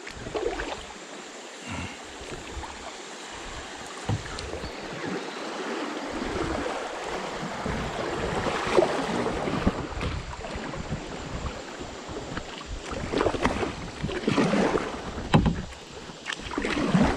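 Kayak moving down a river: a steady rush of moving water, with a few louder splashes from paddle strokes.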